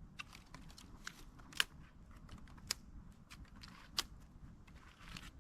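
Wood campfire crackling: irregular sharp pops and snaps, about five of them louder than the rest, over a low steady background.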